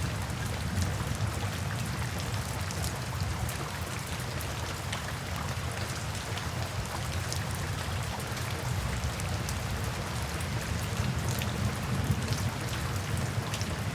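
Steady rain, with many individual drops ticking sharply against a continuous low rumble.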